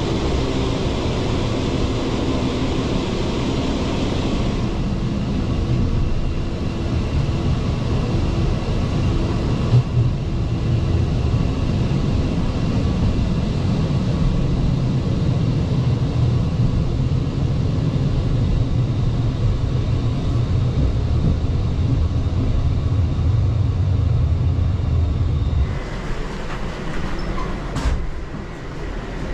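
Regional train running along the line with a steady low rumble. The rumble drops and thins a few seconds before the end.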